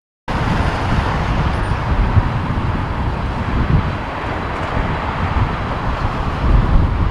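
Strong typhoon wind buffeting the microphone in gusty low thumps over a steady rushing noise, cutting in abruptly just after the start.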